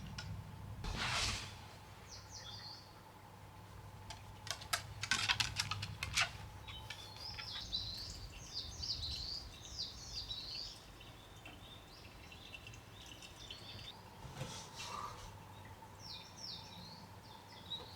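Small birds chirping outdoors: short, falling high-pitched notes repeated in bouts. There is a brief rustle about a second in and a quick run of sharp clicks around five seconds in, the loudest sounds.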